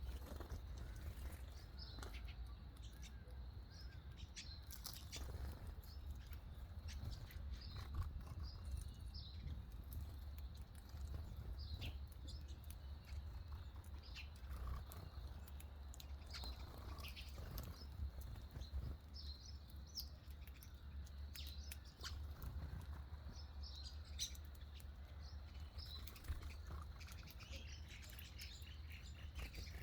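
Small birds chirping and tweeting: many short, high calls scattered irregularly, several overlapping, over a steady low rumble.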